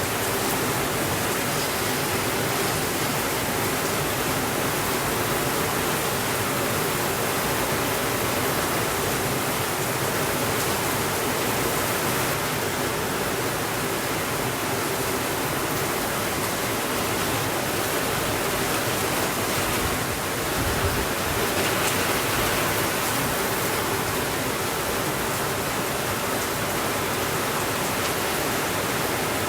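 Steady rainfall, a continuous even hiss with no breaks, with a slight low swell about two-thirds of the way through.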